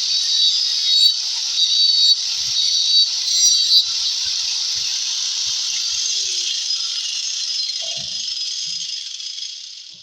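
Handheld power tool cutting away wood to enlarge a subwoofer hole in a speaker box: a steady high hiss and whine with rattling. It tails off over the last few seconds and stops.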